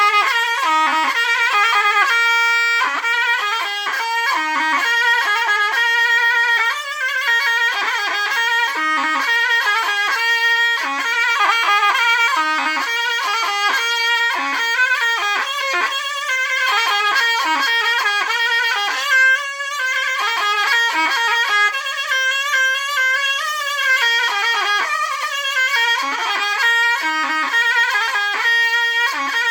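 Zurna, the shrill Turkish double-reed shawm, playing a continuous, quickly ornamented Sivas folk melody.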